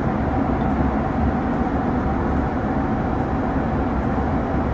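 Steady low rumbling noise with a faint constant hum, unchanging throughout.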